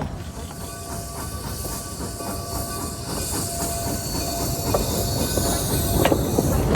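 Narrow-gauge train rolling along the track, its wheels clicking over the rails, growing louder as it approaches.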